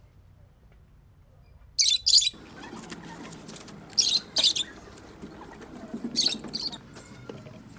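Birds chirping in three short bursts of quick, high chirps, each a couple of seconds apart, over faint outdoor background.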